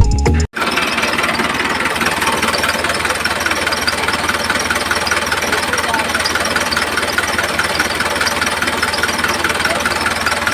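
Small engine of a miniature DIY tractor running steadily with a fast, even knocking rhythm, starting about half a second in after a short burst of music cuts off.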